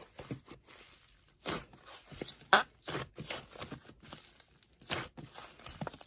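Slime being squeezed and stretched by hand, making irregular crackles and pops; the loudest pop comes about two and a half seconds in.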